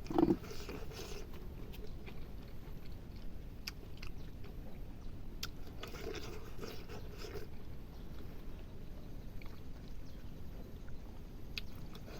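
Close-up chewing and crunching of food, with scattered small clicks and mouth sounds. A louder crunch comes right at the start, and a busier stretch of chewing about six seconds in.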